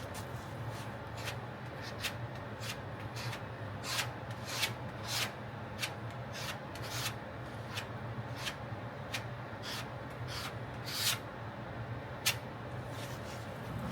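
Plastic spreader scraping body filler ('mud') while mixing it and working it onto a car's steel fender, in a dozen or so short, irregular strokes over a low steady hum.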